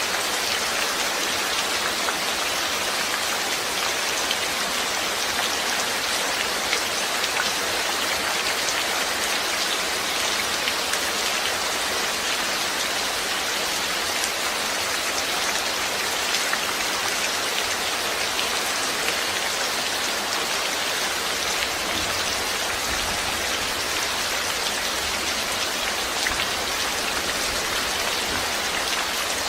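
Steady rain falling, with a dense, even hiss and fine patter of individual drops.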